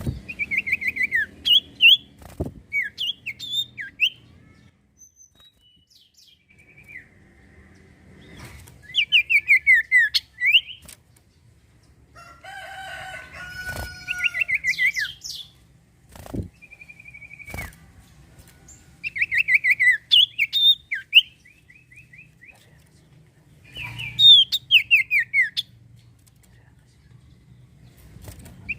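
Common iora (sirtu/cipoh) singing: bursts of rapid, falling whistled notes repeated every few seconds, with one harsher, lower call in the middle and a few faint knocks.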